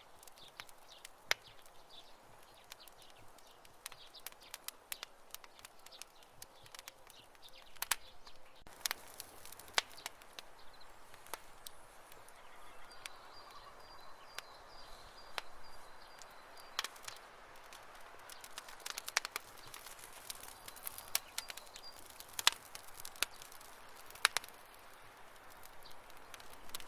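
Campfire crackling: irregular sharp pops and snaps over a soft hiss, a handful of them louder than the rest.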